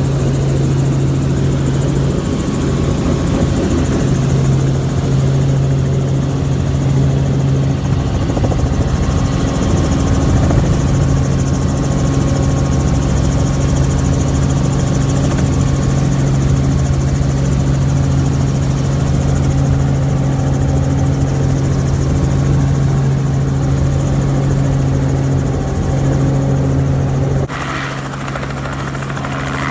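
Helicopter's engine and rotor running steadily in flight, heard from inside the cabin as a loud, even drone with a low hum. Near the end the sound drops a little and changes abruptly.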